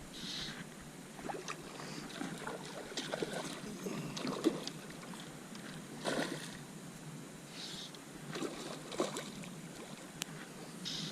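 Water splashing and lapping around a small boat, with scattered light knocks and clicks at irregular moments.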